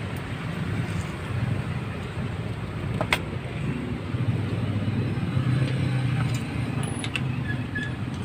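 Steady low rumble of road traffic, with one sharp click about three seconds in and a few lighter ticks near the end.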